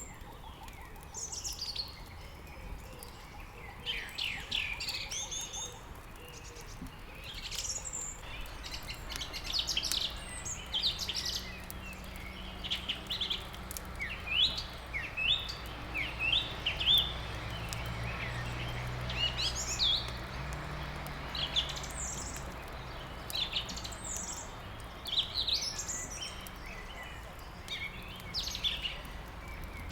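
Songbirds chirping and trilling in short, overlapping phrases, with faint crackling from a wood fire and a low steady rumble beneath.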